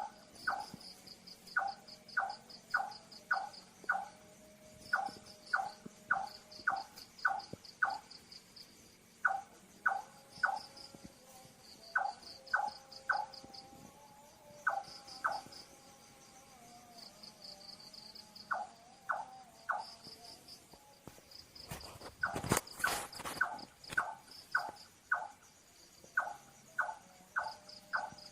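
A night bird calling in runs of short, clipped notes, about two a second, with pauses between runs, over crickets chirping steadily in a high pulse. A brief loud noise rises over everything about 22 seconds in.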